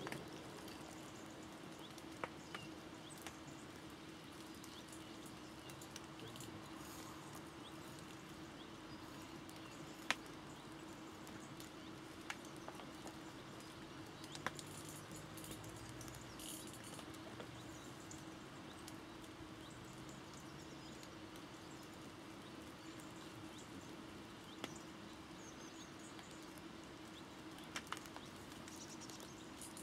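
Faint bird chirps over a quiet outdoor hush, with a steady low hum throughout and a few sharp, isolated clicks.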